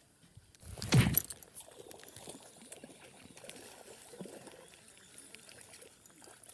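A loud splash about a second in, then faint rustling and small clicks.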